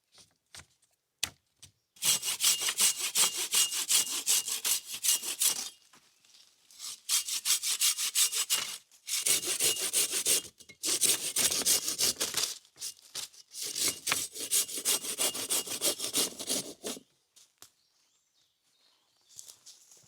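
Hand saw cutting through wood in fast back-and-forth strokes, in four bouts with short pauses between them.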